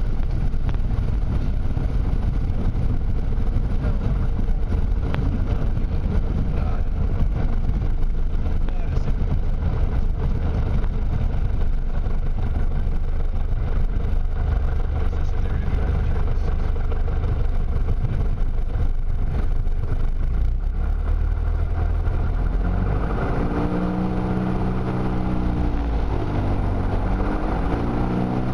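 Single-engine Piper Cherokee's piston engine and propeller running steadily under heavy air noise. Near the end the engine tone wavers up and down in pitch several times.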